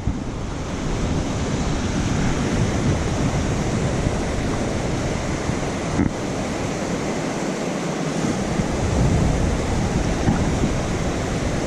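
Rushing creek: a steady roar of running water, with wind buffeting the microphone.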